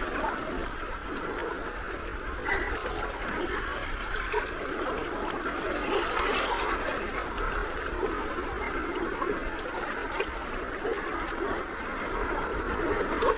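Gentle sea waves lapping at the shore: a steady wash of water with small splashes and trickles.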